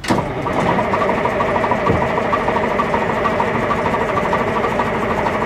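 Diesel engine of a 1990 Flxible transit bus cold-starting after sitting for weeks in the cold: it comes in suddenly and then runs on loud and steady.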